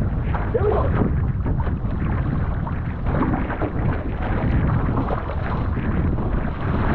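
Wind rumbling steadily on the microphone, mixed with water splashing and rushing around a canoe being paddled upwind.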